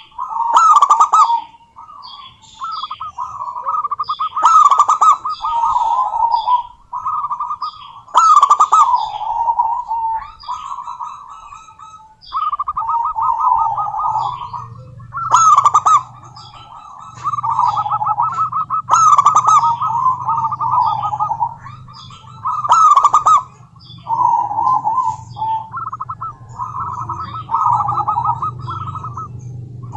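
Female zebra dove (perkutut) cooing: repeated rippling phrases of quick staccato notes, each a few seconds long with short gaps, several opening with sharp, loud notes. A steady low hum comes in about halfway through.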